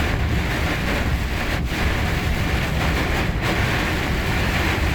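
Steady rushing noise of heavy rain and running water, with a low rumble and wind buffeting the microphone.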